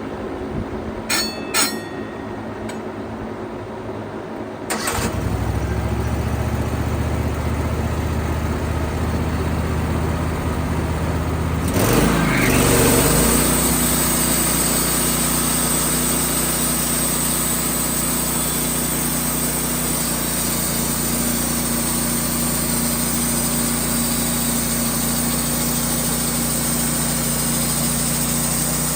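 Two clicks, then a band sawmill's engine starts about five seconds in and runs steadily. Around twelve seconds in it is throttled up with a sweep in pitch, then settles into a steady, higher running sound.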